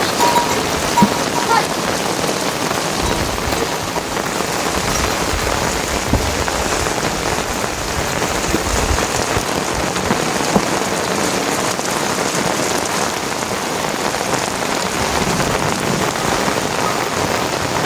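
Steady rain falling on surfaces, with a dense even hiss and some individual drops.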